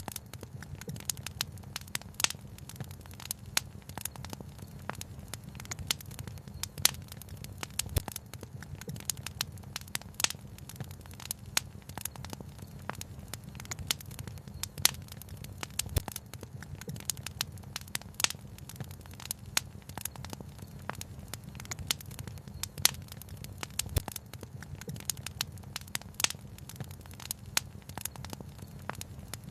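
Wood fire crackling, with frequent irregular sharp pops over a low, steady rumble.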